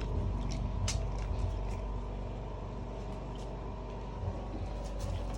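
A steady low mechanical hum, with scattered light clicks and knocks from a dog nudging a plastic treat puzzle toy.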